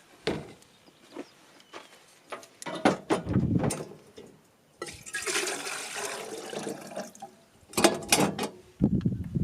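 Water being poured for about two seconds, starting about five seconds in, between scattered clicks and knocks of camp cookware being handled.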